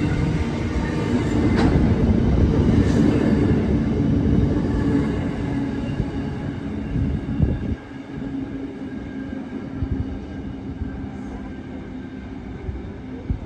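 Train running through a railway station: a loud, heavy rumble with a steady hum that eases off over the second half.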